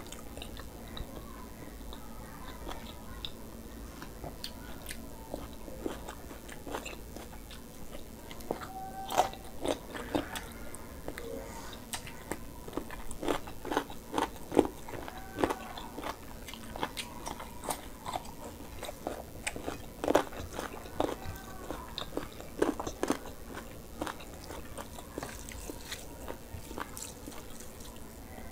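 Close-miked chewing and biting of food eaten by hand, with many short crunches and wet mouth clicks, most frequent through the middle stretch.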